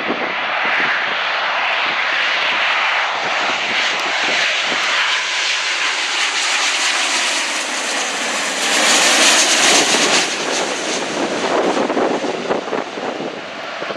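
Jet airliner flying past, its engine noise building to a peak about nine seconds in, with a tone in it that falls in pitch as it goes by.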